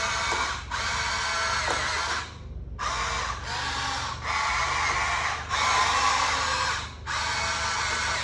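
Electric gear motors of a Huina 1593 radio-controlled toy excavator whining in short runs of one to two seconds, starting and stopping about seven times as its arm, bucket or tracks are worked from the remote.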